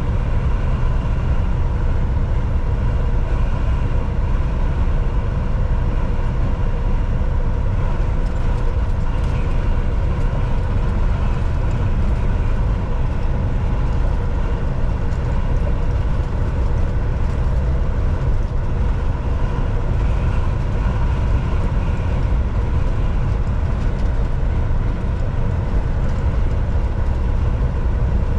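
Volvo VNL 760 semi truck driving along, a steady, unchanging drone of engine and road noise with a few faint steady tones in it.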